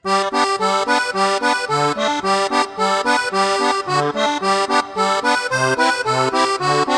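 Upbeat background music with an accordion-like lead playing quick repeated chords over a bouncing bass line, starting abruptly.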